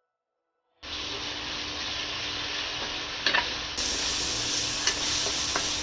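Chopped onions and green chilli-garlic paste sizzling in hot oil in a kadhai, stirred with a spatula that now and then scrapes and clicks against the pan. The sizzling starts abruptly about a second in.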